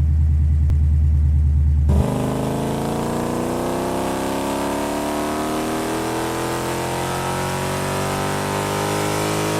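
Jeep engine with a deep, steady growl, then about two seconds in it pulls away and its pitch climbs slowly and evenly as the vehicle accelerates.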